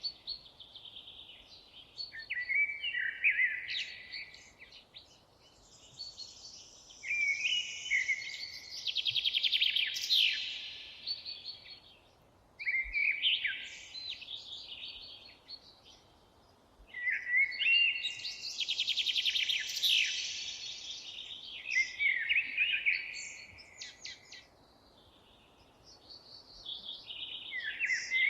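Songbirds singing high, fast warbling phrases a few seconds long, with rapid trills and quick rising and falling notes, separated by short pauses, over a faint steady background hiss.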